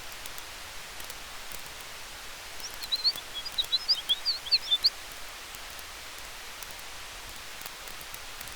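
Campfire crackling with faint scattered pops over a steady hiss of wind in the trees. Near the middle comes a burst of rapid, high bird chirps lasting about two seconds.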